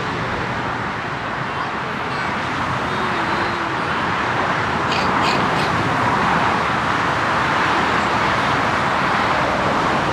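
Jet airliner engines running: a loud, steady rushing noise that swells slightly about five seconds in. Three short high chirps come about halfway through.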